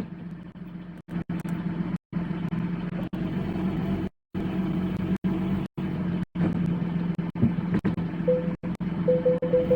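Porsche 718 Spyder's 4.0-litre flat-six idling steadily, the sound cutting out briefly several times. A faint pulsing tone comes in near the end.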